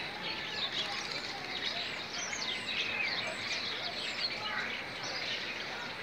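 Small birds chirping and twittering, many short high calls overlapping.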